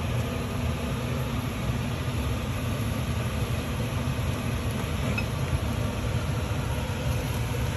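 Steady low rumble with an even hiss above it, unchanging and with no distinct knocks or clicks.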